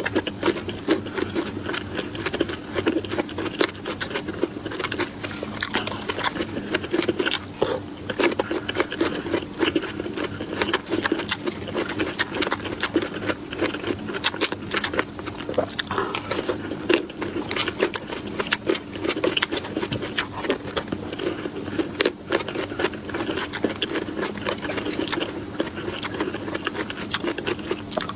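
Close-miked chewing and crunching of food in a person's mouth, a dense, continuous crackle of small clicks and bites.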